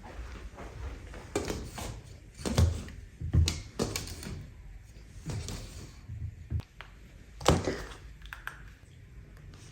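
A string of dull knocks and thuds, half a dozen or so at uneven intervals, like household things being handled and set down in a small room.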